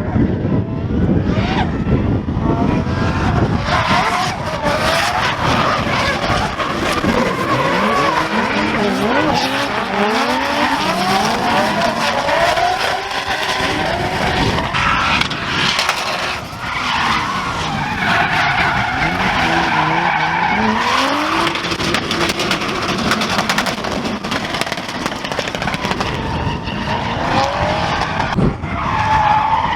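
Drift cars running in tandem, their engines revving up and down over and over with tyres squealing and skidding, loud throughout.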